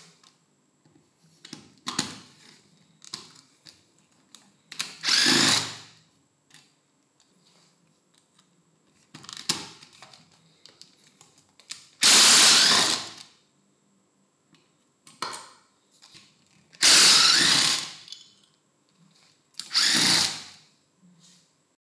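A handheld power tool run in short bursts of about a second, four times, with clicks and knocks of parts being handled between bursts.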